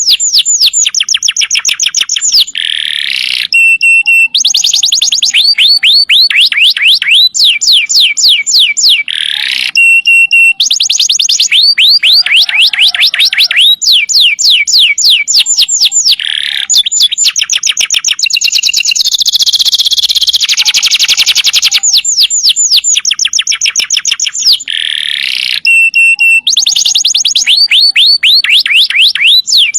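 Domestic canary singing loudly and without pause: long rolling phrases, each a fast trill of rapidly repeated down-sweeping notes, switching from one note type to the next with only brief breaks.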